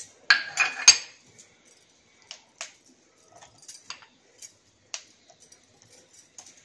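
A short rustle and clatter with a sharp clink about a second in, as green chillies are dropped into a steel mixer-grinder jar, then scattered faint taps and clicks.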